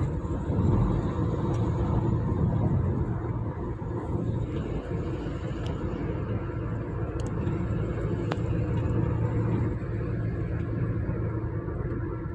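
Car on the move: steady engine and road rumble, with a few faint clicks.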